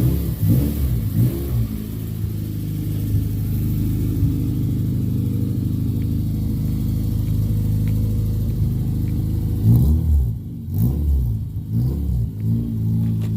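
Car engine under way on a test drive after new coil packs and spark plugs. The engine note rises and falls in the first couple of seconds, holds steady for several seconds, then rises and falls again with dips in level near the end.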